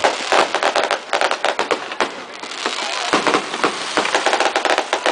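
Firecrackers going off in a rapid, irregular string of sharp cracks, several a second.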